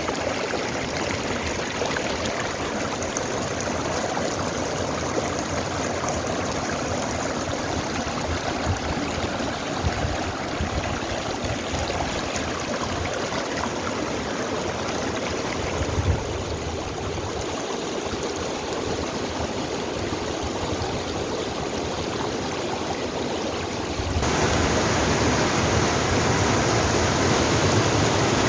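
Mountain valley stream rushing steadily over rocks, with a few brief low bumps on the microphone. About 24 seconds in the water becomes louder and brighter.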